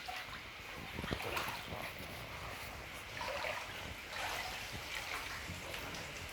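Floodwater splashing and trickling, with a few light knocks about a second in.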